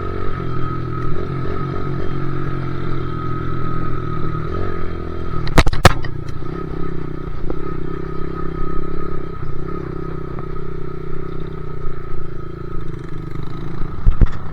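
Dirt bike engine running steadily while riding, with a couple of sharp knocks about five and a half seconds in.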